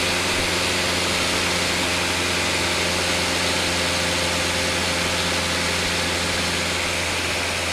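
Cessna light aircraft's single piston engine and propeller running steadily in cruise, heard from inside the cabin as a constant drone.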